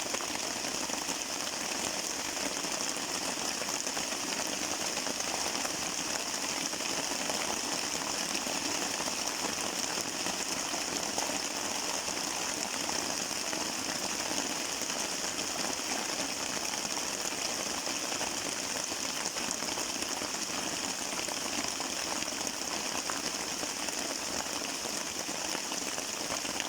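Steady rain falling, an even unbroken noise.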